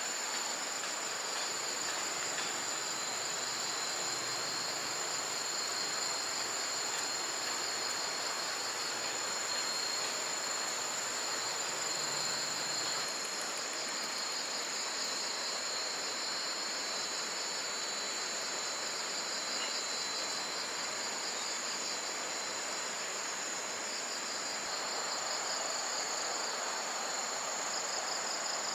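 Insects chirping in a steady chorus: a continuous high-pitched buzz with pulsing trills over a constant hiss.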